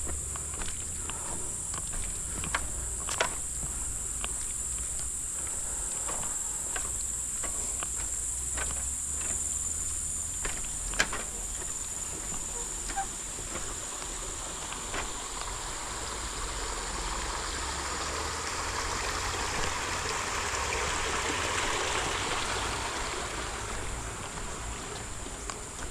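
Steady high-pitched drone of tropical forest insects, with scattered clicks of footsteps on the trail in the first half. A broad rushing hiss swells up about halfway through and fades near the end.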